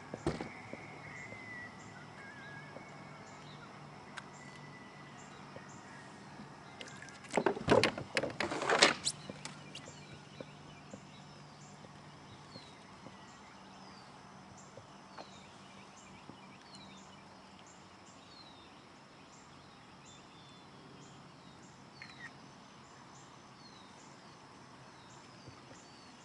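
Quiet outdoor ambience with birds making many short falling chirps and a faint steady low hum, broken by a burst of sharp clattering knocks about eight seconds in.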